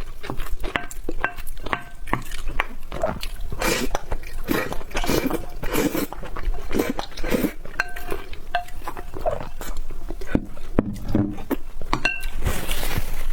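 Close-miked eating: utensils clicking and clinking against a bowl, some strikes ringing briefly, mixed with chewing and mouth sounds. A rushing noise comes in near the end.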